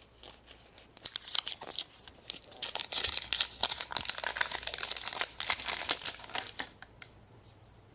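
Plastic wrapping crinkling and tearing as it is pulled open by hand, a dense run of sharp crackles starting about a second in and stopping shortly before the end.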